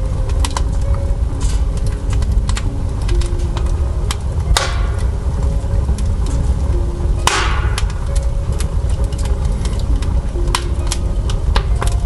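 Wood fire burning in the firebox of a new cast-iron stove-fireplace at its first firing, crackling with many sharp pops over a steady low rumble.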